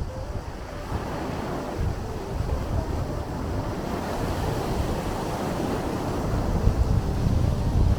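Sea waves washing in continuously, with low rumble from wind buffeting the microphone that grows stronger toward the end.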